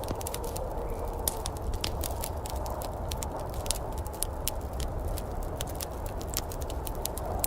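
Wood fire crackling in a fireplace, with frequent irregular sharp pops and snaps over a steady low rushing background.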